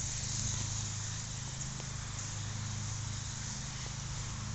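Steady outdoor ambience: insects buzzing high over a low, steady hum.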